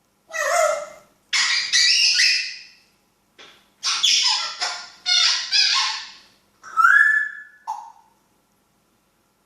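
African grey parrot squawking, a run of about six harsh calls with a short whistled note near the end.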